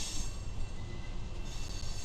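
Diesel freight locomotives rolling slowly past: a steady low rumble of engines and wheels on rail. A high hiss fades out just after the start and returns about a second and a half in.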